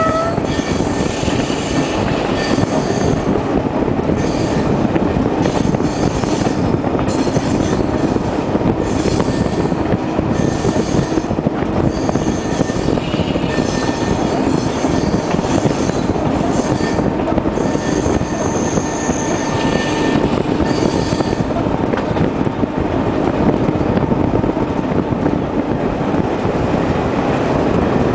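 Tren de las Sierras passenger train running, heard from the carriage window: a steady rumble of wheels on rail with high wheel squeal coming and going, which dies away after about twenty seconds.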